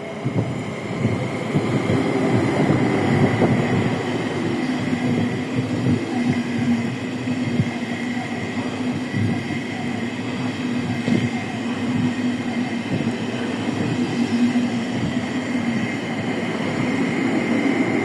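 ICE train running past close by, its wheels clattering on the rails, with a steady hum and a higher steady whine from the train throughout.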